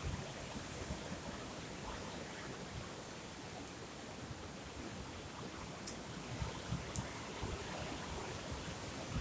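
Steady rushing noise of the sea with wind gusting on the microphone, low buffeting thumps coming and going, and a single faint click about seven seconds in.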